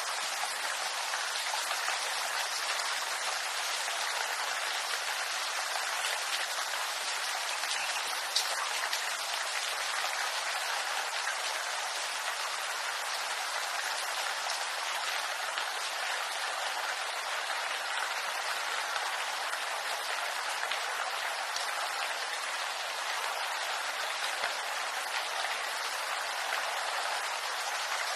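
Steady rain falling on bamboo foliage, a dense even patter of drops, with one slightly louder drop about eight seconds in.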